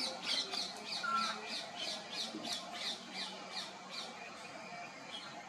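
Parrot calling in a fast, even run of short squawks, about four a second, which fades out about four seconds in.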